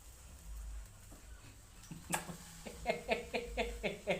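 A person laughing in a quick run of short giggles that starts about three seconds in, after a single sharp click about two seconds in.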